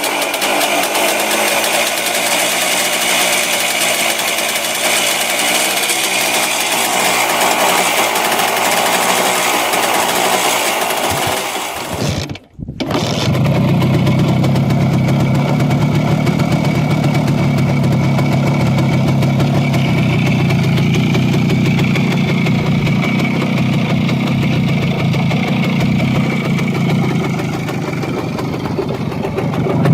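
Motorcycle engine running steadily just after starting. About twelve seconds in the sound cuts out for a moment, and a second motorcycle engine follows, running with a lower, fuller sound.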